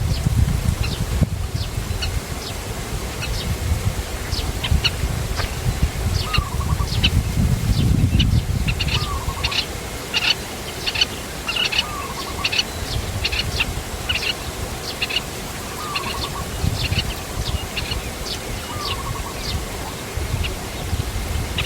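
Birds chirping: many short, high, rapid chirps, with a lower slurred call repeated about every two to three seconds. A low rumble runs under the first half.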